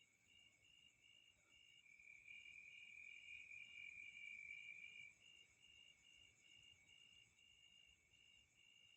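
Faint insect chorus: a steady high-pitched chirring with a pulsing note repeating about two or three times a second, louder for a few seconds in the middle.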